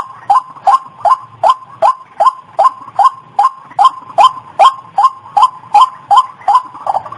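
White-breasted waterhen (ruak-ruak) call used as a lure: a loud, short note repeated about two and a half times a second, each with a sharp start and a drop in pitch. Near the end the notes come quicker and softer.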